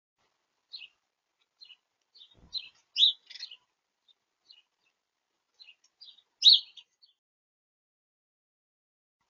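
Small songbirds chirping at a feeder: scattered short, high chirps in small clusters, the loudest about three seconds in and again about six and a half seconds in.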